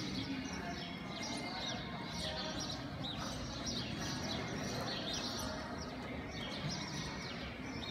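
Small birds chirping over and over, several short high chirps a second, over a steady low background hum.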